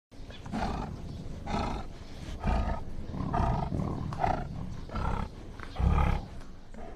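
A large animal giving a series of short, deep roar-like calls, about one a second.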